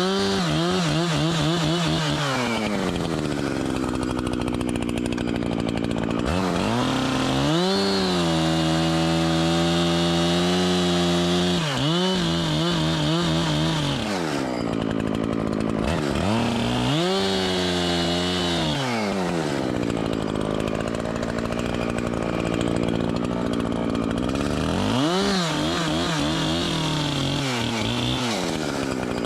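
Echo CS-7310 two-stroke chainsaw cutting wood. The throttle opens to full revs and holds for a few seconds at a time, then drops back toward idle between cuts, about four times.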